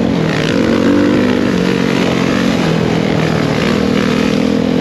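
Dirt bike engine running while riding, its note stepping up and down with the throttle.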